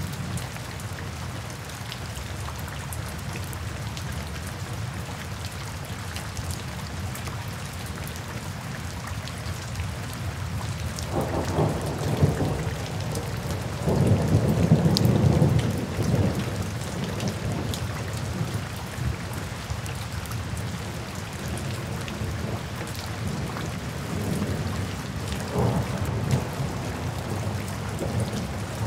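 Steady rain falling through forest foliage. Low rolling rumbles swell twice near the middle and once more, more weakly, near the end.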